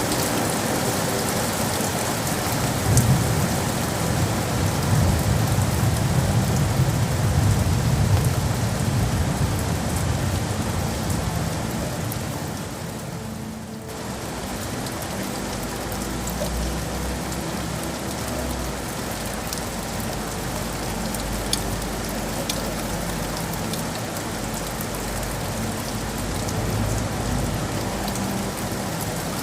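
Steady heavy rain, with a low rumble rising about three seconds in and fading by about ten seconds. The rain dips briefly about halfway through, then goes on over a deeper low rumble.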